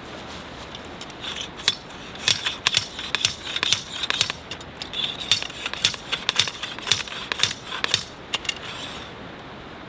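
A quick, irregular run of sharp clicks and clinks from small hard objects being handled, starting about a second in and stopping near the end, over a steady background hiss.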